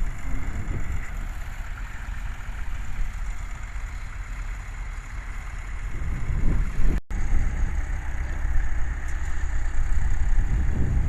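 Tractor engine running steadily, with wind buffeting the microphone. The sound drops out for an instant about seven seconds in.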